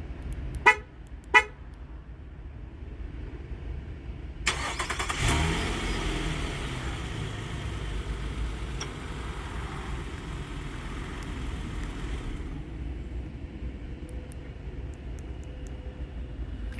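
Two short horn chirps from a 2020 Nissan Maxima as it locks from the key fob. About four and a half seconds later its 3.5-litre V6 starts on the remote start, rises briefly in revs and runs on at idle.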